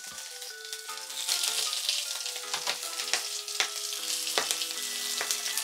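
Salmon fillets and spring onion greens sizzling in hot oil in a frying pan, the sizzle growing louder about a second in as the greens go in. Metal tongs click against the pan a few times.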